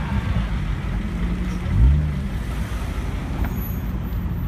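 A lowered show car's engine idling low with a steady exhaust note, blipped once about two seconds in, the revs rising and falling back.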